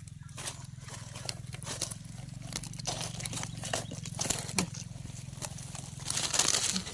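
Scraping and crackling of soil and leaf litter as termite mushrooms are dug and cut out of the ground, in many short strokes, louder and denser near the end, over a steady low drone.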